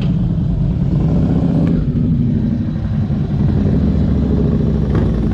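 Motorcycle engine running steadily under way, a loud, even, low drone that starts abruptly.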